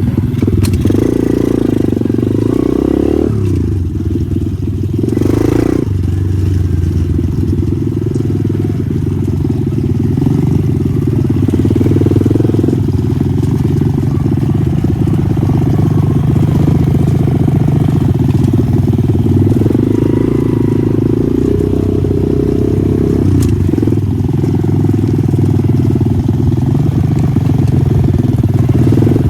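Pit bike's small single-cylinder engine running as it is ridden, revs held fairly steady with a few rises and falls. A short rush of noise about five seconds in.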